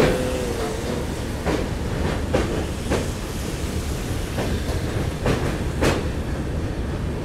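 Passenger train running on the track, a steady low rumble with wheels clacking at irregular intervals over rail joints, heard from aboard while it crosses the Yamuna river bridge.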